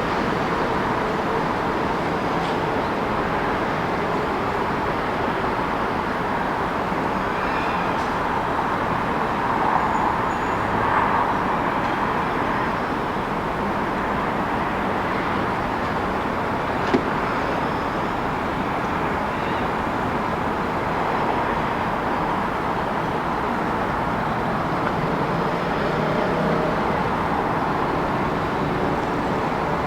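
City street ambience: steady hum of road traffic, with a single short sharp knock a little past halfway.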